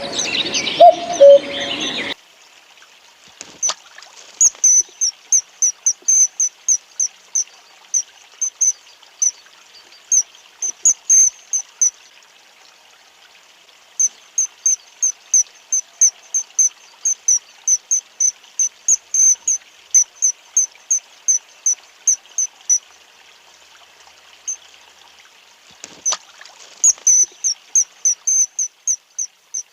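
A small bird's high, sharp chirps, repeated about three a second in long runs with short pauses, over a faint trickle of running water. The first two seconds hold the end of a different call, low two-note calls like a cuckoo's.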